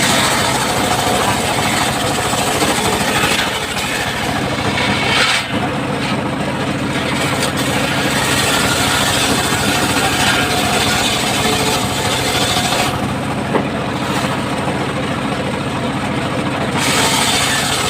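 Circular saw running and cutting through wood, a steady machine hum under the cutting noise. The higher cutting noise eases twice, once briefly and once for a few seconds near the end.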